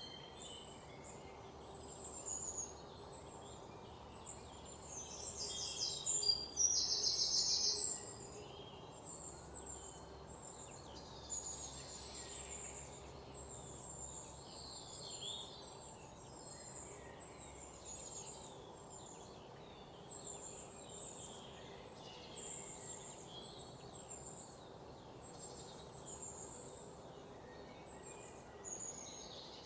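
Several wild birds singing and calling, with short high chirps throughout and one louder rapid trill about six seconds in, over a steady low background hiss.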